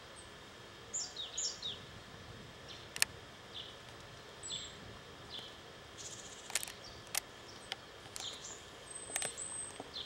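Japanese tit singing faintly: short high notes repeated about once a second, with a quick run of three falling notes about a second in. A few sharp clicks cut through and are the loudest sounds.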